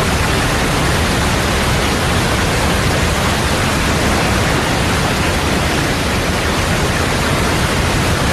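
Steady loud rush of fast-flowing river water, the McNeil River running high and swollen with meltwater.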